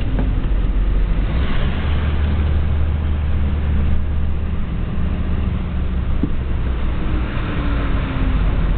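Vehicle traffic on a flooded highway: a steady low rumble, with a rushing noise that swells about a second and a half in and again near the end as vehicles pass. The second swell comes with a slowly falling engine note.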